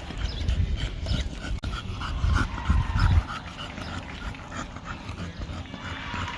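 A dog panting in quick, even breaths, about three a second. A loud low rumble runs through the first three seconds.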